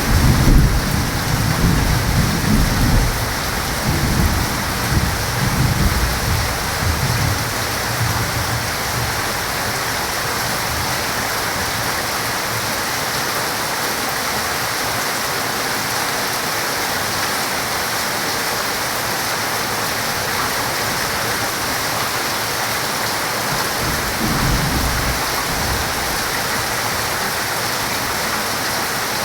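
Steady heavy rain, with thunder rumbling low through the first several seconds and dying away, then a second, weaker rumble of thunder near the end.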